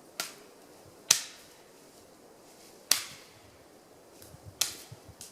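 Dry branches being snapped by hand for firewood: four loud, sharp cracks, one every second and a half or so, with a few smaller crackles near the end.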